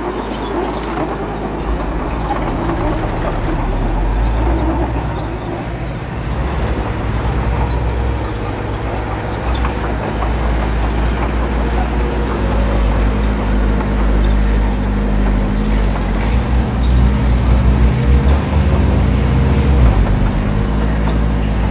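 Small bulldozer's diesel engine running steadily under work, its low note shifting slightly as more tones come in about halfway through.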